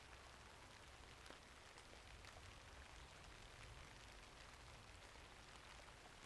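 Faint, steady rainfall with scattered small ticks.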